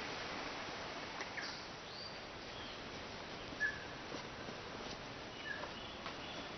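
Birds calling: short whistled notes, some rising, over a steady hiss of forest background, with a few clicks, one sharp click a little past halfway.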